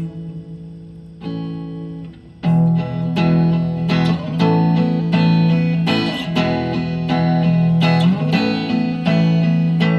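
Guitar playing an instrumental break between sung verses. Chords ring out and fade over the first two seconds, then steady strummed chords start about two and a half seconds in.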